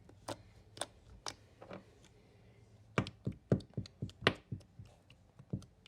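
Sharp knocks and taps of a nail polish bottle being tapped to get the thick polish to come out. A few light taps come first, then a quicker run of louder knocks about three seconds in.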